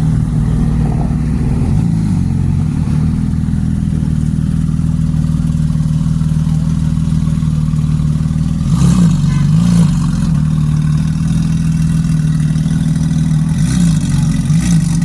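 Car engine idling steadily, with two quick throttle blips about nine seconds in and two more near the end.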